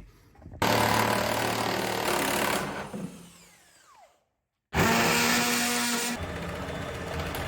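Power drill with a metal-cutting bit drilling out a fender bolt: a run at speed that winds down with a falling whine, a moment of dead silence, then another run of drilling that settles to a lower, steadier sound.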